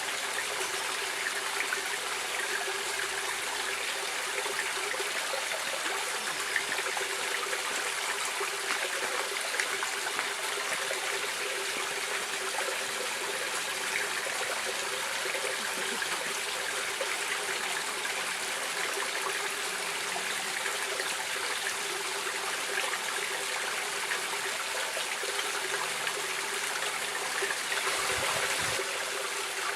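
Stream water running and trickling steadily, an even splashing rush with no breaks.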